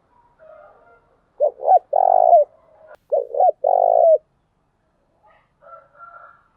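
Spotted dove cooing: two loud phrases in quick succession, each a short coo followed by a longer one, with fainter calls before and after. It is the lure call used to attract wild doves.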